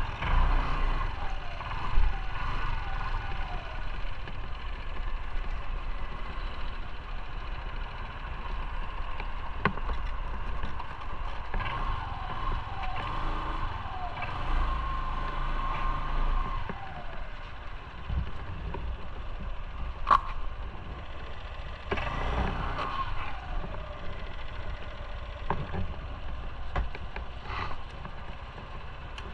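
Motorcycle running on the road, a steady low rumble with tones that fall in pitch now and then, and a few sharp clicks.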